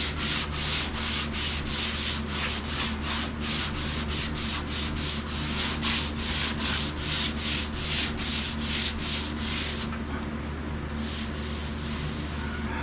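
Hand sanding a blemish in a vehicle's body panel: sandpaper rubbed back and forth in quick, even strokes, about three a second, stopping about ten seconds in. A steady low hum runs underneath.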